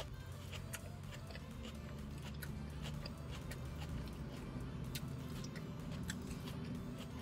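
A person chewing salad close to the microphone: irregular crunches and wet mouth clicks, over background music.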